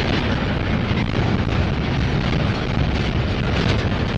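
Freight train of container-laden well cars passing at close range: a steady, loud rumble of steel wheels on the rails with irregular clanks from the cars.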